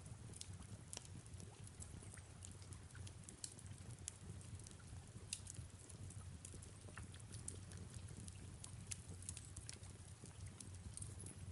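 Faint fireplace crackling, irregular sharp pops and clicks over a low steady rumble, with soft rain in the background.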